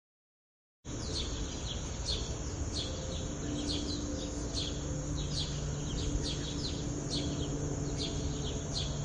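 A bird calling in short, quick downward chirps, about two a second, over a steady high-pitched buzz and low outdoor background noise; it starts about a second in.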